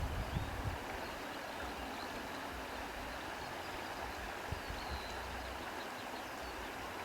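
Wind blowing steadily through trees, with a low buffeting in the first second and faint, sparse bird chirps.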